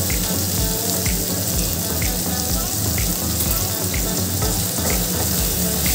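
Chopped tomato, grated ginger and spices sizzling steadily in hot mustard oil in a kadai. Background music with a steady beat plays alongside.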